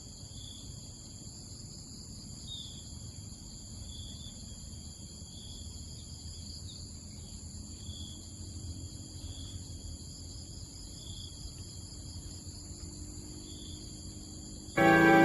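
Insects trilling steadily in several high-pitched bands, with a short call repeating about every second and a half, over faint low background noise.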